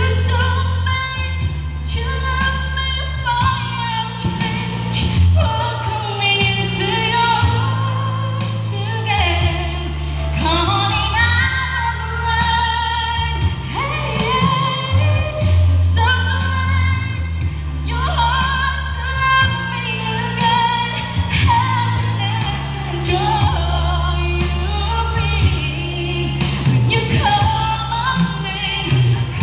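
A woman singing a pop song over a backing track with a steady bass line.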